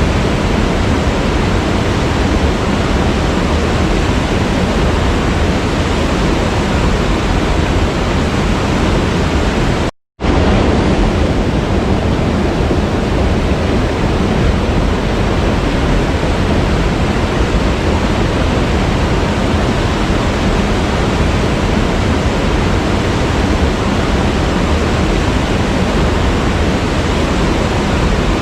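Waterfall: a steady rush of falling water, cut off to silence for a fraction of a second about ten seconds in.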